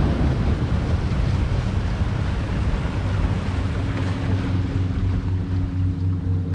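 Airboat running on the water: a steady engine hum under a rush of air and water, the hiss easing off in the second half as the boat slows.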